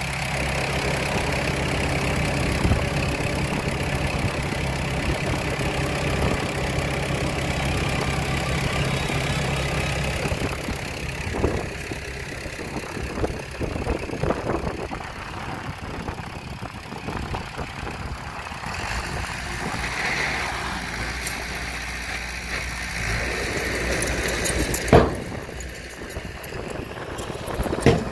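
Heavy construction machine's diesel engine idling steadily, then dropping quieter after about ten seconds, with scattered knocks and clanks. A sharp metallic bang near the end is the loudest sound, and a second, weaker one follows.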